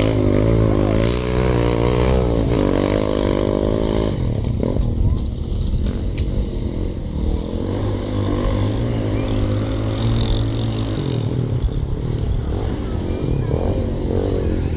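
Trials sidecar outfit's motorcycle engine revving through a loose dirt section. The engine note rises and falls repeatedly in the first few seconds, runs more steadily for a while, then revs up and down again near the end.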